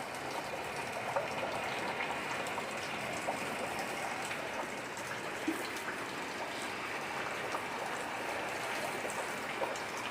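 Steady rain falling, an even patter with scattered louder single drops landing now and then.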